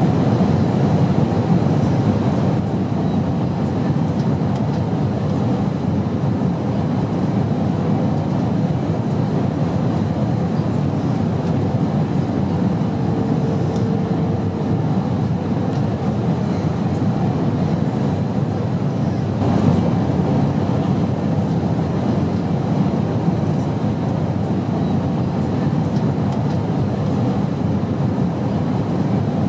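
Airplane engine noise: a steady low drone that does not change, with a brief faint tone about halfway through.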